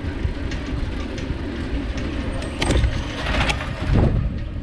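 Road traffic with a steady low rumble; a vehicle passes close by, loudest from about two and a half to four seconds in.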